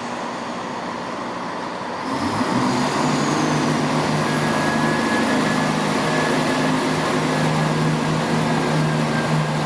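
Diesel train engine running, its note rising and getting louder about two seconds in, then holding steady as it works under power.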